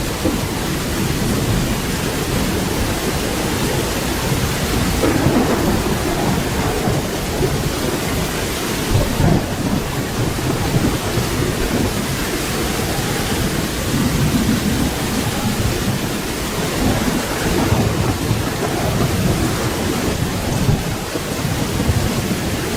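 Steady rain falling, with low rolling thunder rumbling underneath and swelling several times.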